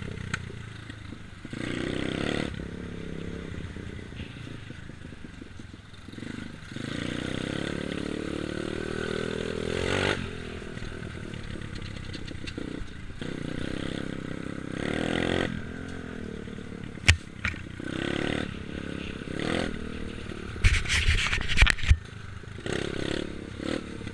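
Small dirt bike engine running as it is ridden, its pitch rising and falling with the throttle. A sharp knock comes partway through and a burst of clattering knocks follows near the end.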